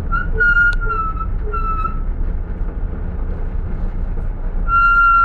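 Minibus brake pads squealing under braking: a high whistle broken into a few short squeals in the first two seconds, then one long steady squeal starting near the end, over low traffic rumble.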